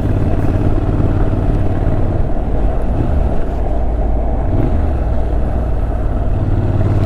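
Motorcycle engine running steadily while riding, with wind and road rush; the engine note shifts pitch a few times as the revs change.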